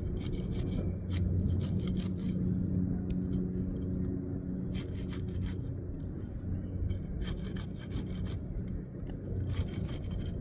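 Flat pry bar scraping and tearing through the tar seal strip of an asphalt shingle in several short bursts, over a steady low hum.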